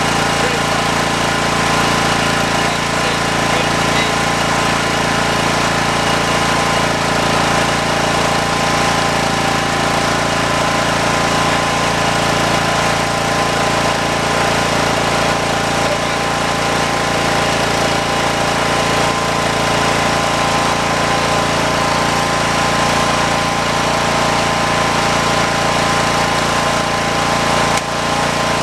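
John Deere lawn tractor's engine and mower deck running steadily at constant speed while mowing, with a brief dip in level near the end.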